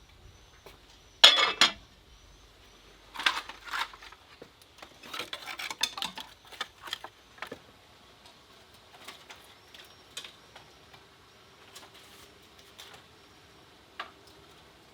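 Dishes and metal utensils clattering and clinking. The loudest burst comes about a second in, further bursts follow over the next several seconds, and then there are only scattered single clinks.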